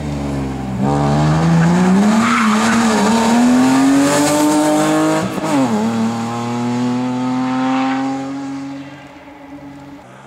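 BMW E30 rally car's engine under hard acceleration: the revs climb for about five seconds, drop sharply at a quick gear change, then hold steady before the sound fades near the end.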